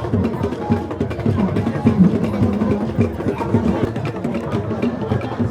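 Music carried by fast, busy drumming and percussion strikes.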